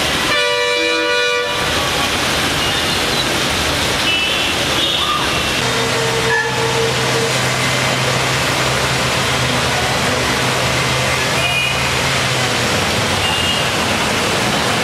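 Heavy rain pouring, a dense steady hiss, with floodwater rushing. A vehicle horn sounds for about a second and a half right at the start, and a low steady engine hum runs from about five to twelve seconds in.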